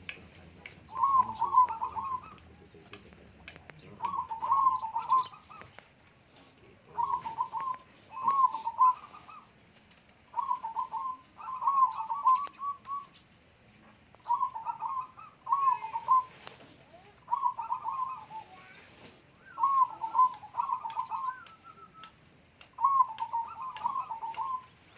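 Zebra doves (perkutut) cooing: a rhythmic, multi-note coo phrase repeated about every three seconds.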